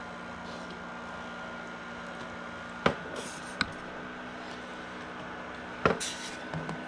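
Egg incubator's steady hum, with a few sharp clicks and knocks and brief rustles as eggs and plastic parts are handled inside it: two about three seconds in and another near the end.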